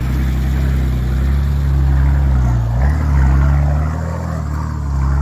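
Four-wheel-drive vehicle's engine running, its pitch dipping and then rising again about three seconds in as the revs change.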